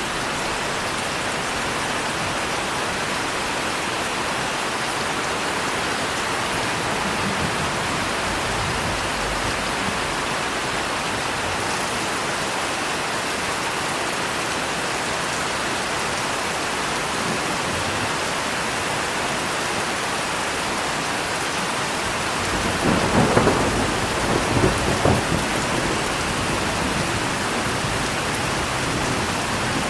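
Steady, heavy rain falling, with thunder rumbling: faint low rolls early on, then a louder crackling peal near the end.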